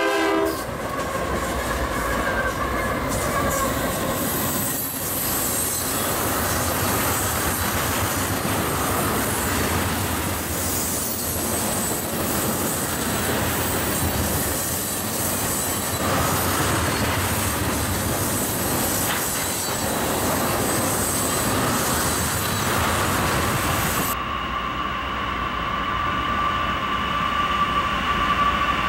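A freight train rolling past close by: diesel locomotives, led by a BNSF GE locomotive, then a long string of tank cars, making a dense, loud rumble and rattle of wheels on rail with high wheel squeal over it. About 24 seconds in the sound changes suddenly to a duller, quieter train approach with a steady high squeal.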